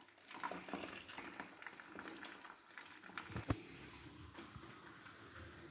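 Faint crackling and spitting of battered chicken frying in hot oil, then the fizz of soda poured from a plastic bottle over ice in a glass, with one sharper click about three and a half seconds in.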